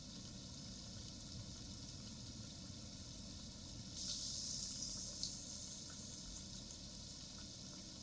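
Faint, steady sizzling hiss of food cooking in a hot pan, louder for about a second midway, with a few light clicks.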